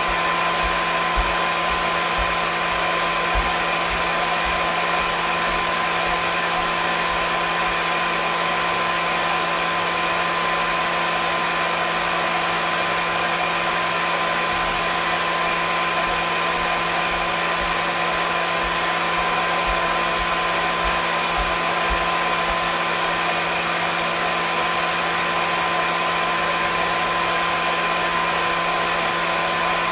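Hair dryer running continuously: an even rush of air with a steady motor whine.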